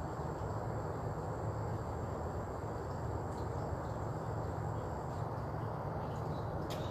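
Steady outdoor background noise: a low rumble and hiss with no speech. A thin, high steady tone runs over it and stops about five seconds in, and there are a few faint ticks.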